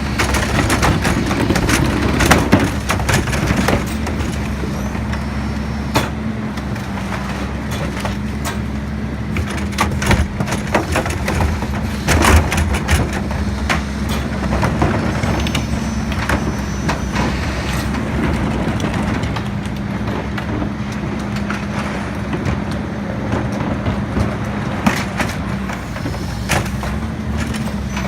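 Garbage truck engine running steadily, with a steady drone throughout and scattered metallic clanks and knocks.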